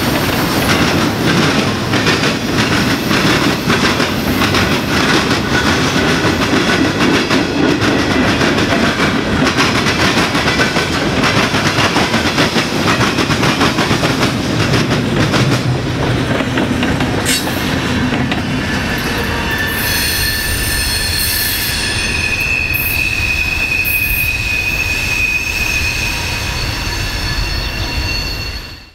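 Freight car wheels of a passing manifest train banging rapidly over a railroad diamond crossing. About twenty seconds in, the clatter thins into a high, steady wheel squeal as the last cars go by.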